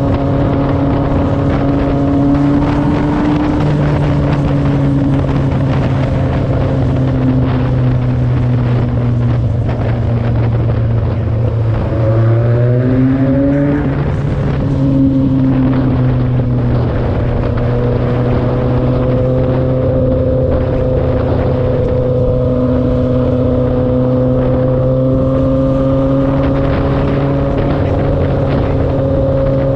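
Motorcycle engine running at a steady cruise, with wind noise on the helmet microphone. About twelve seconds in, the revs dip, then climb for about two seconds as the rider rolls on the throttle, before settling back to a steady drone.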